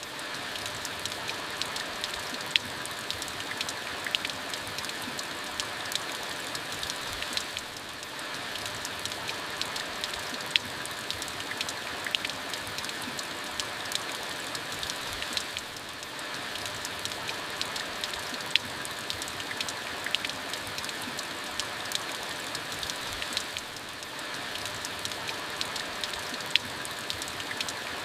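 Steady rain falling, with many sharp individual drops striking a hard surface among the hiss. It eases slightly for a moment about every eight seconds.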